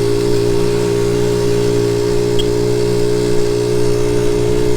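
A 1976 Honda Z50J's small single-cylinder four-stroke engine running at a steady, unchanging pitch.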